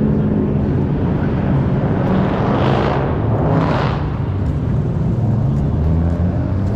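Car engines running with a steady low rumble. A louder rushing swell builds and fades between about two and four seconds in.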